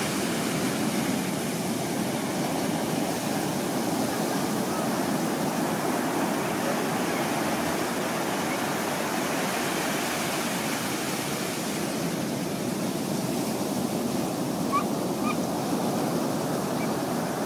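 Ocean surf from a typhoon swell: a steady rush of breaking waves and wash. A couple of faint short chirps come about fifteen seconds in.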